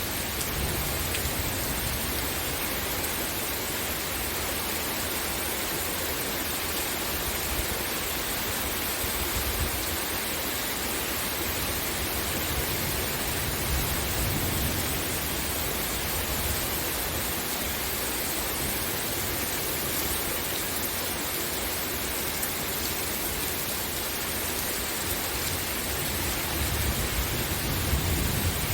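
Steady rain falling, an even hiss of rainfall with no breaks.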